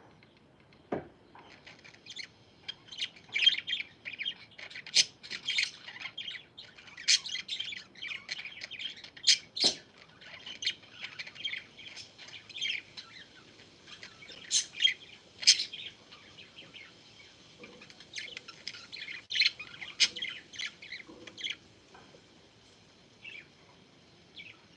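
Pet parakeets chirping, many short high calls overlapping thickly from about two seconds in, thinning to a few scattered calls near the end.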